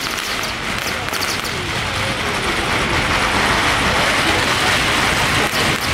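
Festival street noise: a crowd of voices under a dense crackling hiss of firecrackers, the crackle sharpest in the first second or so.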